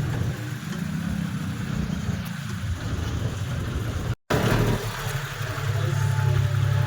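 Tractor's diesel engine running steadily. Its sound breaks off for a moment a little past four seconds in, then resumes slightly louder.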